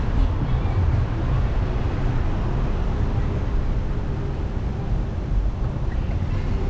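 Steady low rumble of wind buffeting the microphone with road noise while riding a bike.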